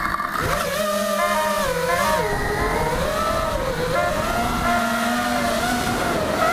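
FPV quadcopter's motors whining, the pitch rising and falling as the throttle changes.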